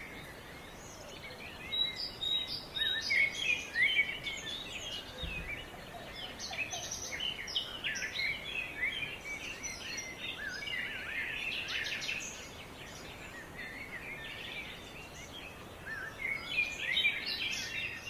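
Small birds chirping and singing, many short calls overlapping in a busy chorus, with a couple of quieter stretches.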